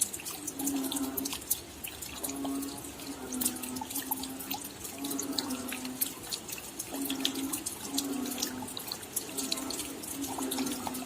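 Rain falling at night, with dense sharp drops pattering and dripping. A low pitched, droning call repeats about once a second throughout, each lasting about half a second.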